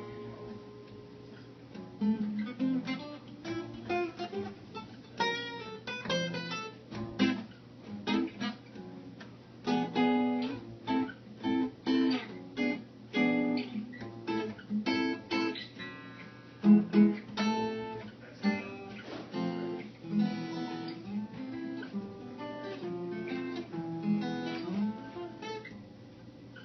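Acoustic guitar playing a tune, mixing strummed chords with picked notes.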